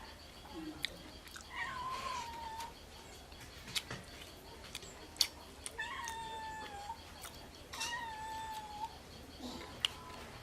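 An animal calling three times, each call about a second long and held at a fairly steady pitch, with scattered sharp clicks between the calls.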